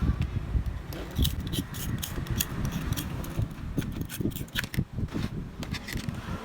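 Hand tools and small parts being handled in repair work: irregular sharp clicks and light taps over a low rumble.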